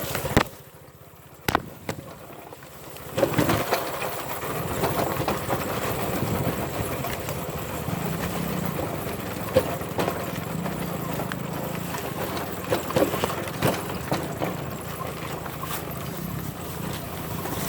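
Dirt bike engine running steadily under wind noise on the microphone, with scattered knocks and rattles; it drops away briefly near the start, then comes back about three seconds in.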